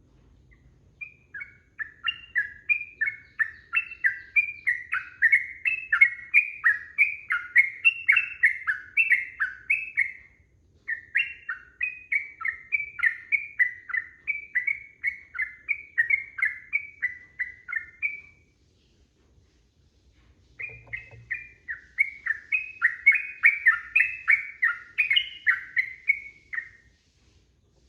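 Yellow-vented bulbul (trucukan) singing long, fast runs of chattering, warbling notes in three extended bouts with short pauses between them.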